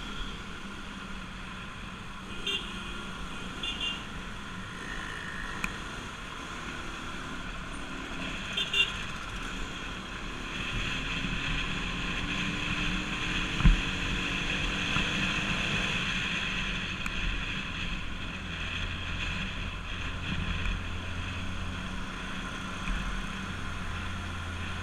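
Bajaj Pulsar RS200's single-cylinder engine running under way with road and wind noise, its pitch rising for a few seconds about halfway through as it accelerates. A sharp knock comes just after the middle, and a few brief high beeps sound from traffic.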